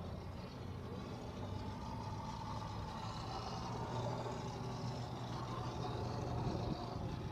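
Radio-controlled Sea Fury model airplane in flight, a steady engine drone with a fainter wavering whine above it, growing a little louder toward the end.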